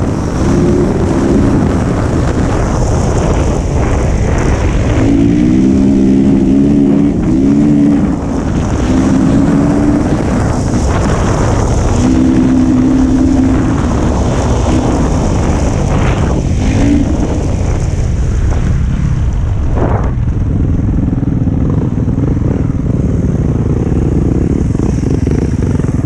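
Dirt bike engine running under way on a trail, its pitch rising and falling as the throttle is opened and closed.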